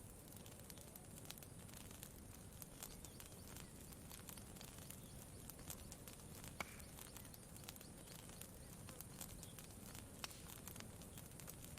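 Faint campfire crackling: scattered sharp pops and snaps, one louder snap a little past the middle, over a low steady rumble.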